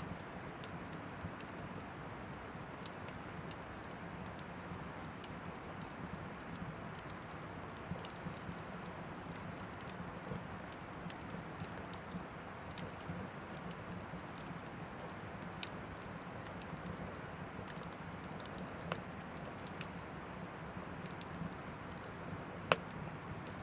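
Oak firewood burning in an Anevay Frontier Stove Plus wood stove: a steady low hiss of flame with scattered sharp crackles and pops, one louder pop near the end.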